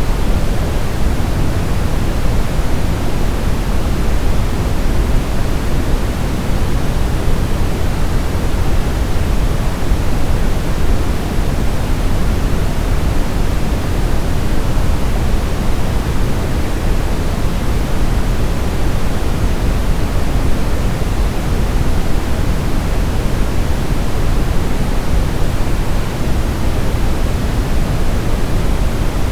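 Steady generated sleep-aid noise, a constant even hiss with no changes, heavier in the low end than the high, closer to pink noise than pure white.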